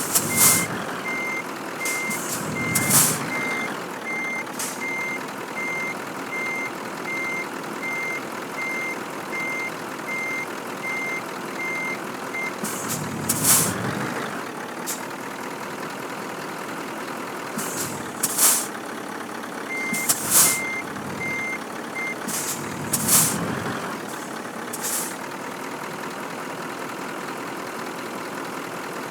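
Scania truck manoeuvring in reverse: its reversing alarm beeps in a steady series, stops about twelve seconds in and returns briefly later, over the running engine. Short, sharp air-brake hisses come several times throughout.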